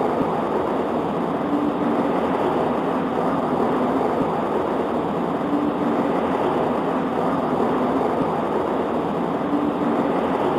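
Rain falling steadily on a window pane: an even, continuous patter with no thunder.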